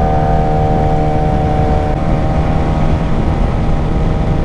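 Suzuki GSX-R 600's inline-four engine running at a steady cruising speed, holding an even note, with heavy wind rush over the microphone.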